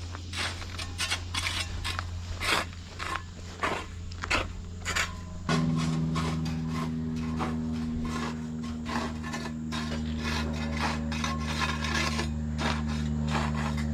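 Repeated scraping and rasping strokes, like tools dragged through infield dirt, over the steady drone of an idling machine engine. About five and a half seconds in, a second, higher engine note joins and holds steady.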